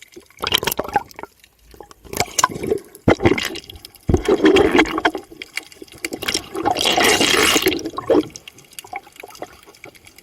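Sea water splashing and sloshing in irregular bursts, with a longer, louder stretch through the middle.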